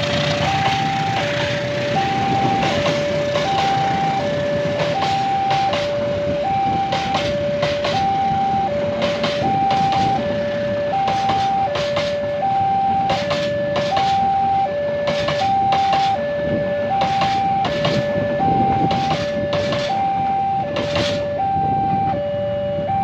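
Passenger train coaches rolling past close by: a steady rumble of wheels on rail with sharp clacks in quick pairs as the bogies cross a rail joint. Over it an electronic two-tone alarm alternates high and low evenly, about once every second and a half.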